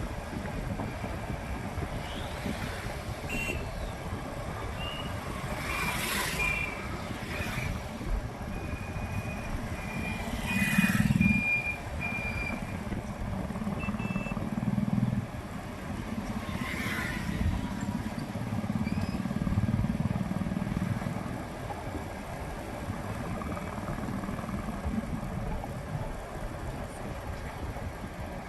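City street traffic heard from a moving motorbike: a steady low engine and road rumble, vehicles swooshing past three times, and several short high-pitched beeps in the first half.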